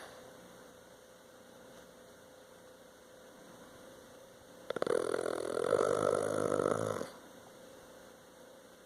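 Sleeping bulldog snoring: one long snore begins about halfway through with a fluttering start and lasts a little over two seconds.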